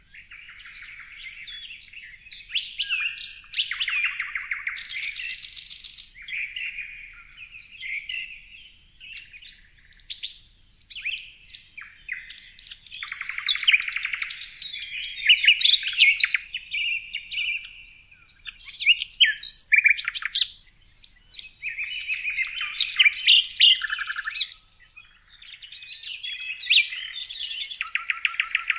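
Birds chirping and singing in a continuous run of high-pitched phrases, many broken into fast trills, with short pauses between them.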